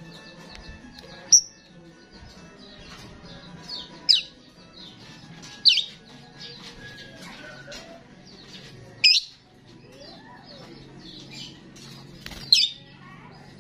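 A starling singing: five loud, sharp, high calls spaced a few seconds apart over a steady run of softer chattering and warbling notes.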